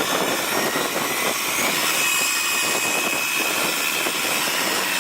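Vehicle engine running hard under steady load, with a whine that rises about a second and a half in and then holds.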